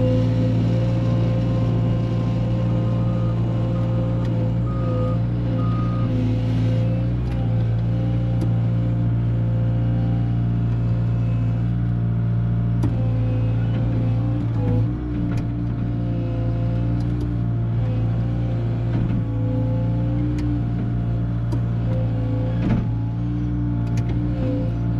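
Bobcat skid-steer loader's engine running steadily at working speed, with a few short beeps about three to six seconds in.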